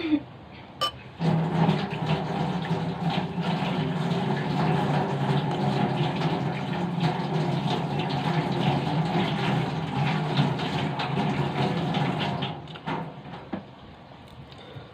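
Washing machine running, with water rushing in over a steady motor hum. The sound starts about a second in and stops shortly before the end.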